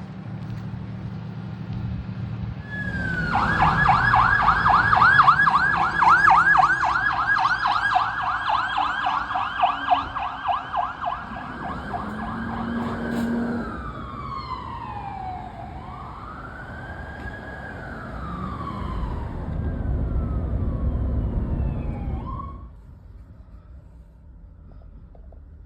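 Emergency vehicle siren passing on a response: a fast yelp starting about three seconds in, switching around halfway to a slower rising and falling wail, then cutting off suddenly near the end. A low vehicle rumble runs under it and grows louder shortly before the siren stops.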